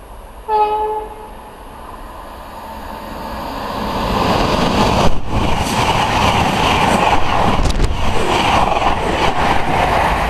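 A Virgin express train (Pendolino or Super Voyager) sounds one short horn note, then passes through the station at speed. The passage is a rising rush of wheels and air with clicks of wheels over rail joints.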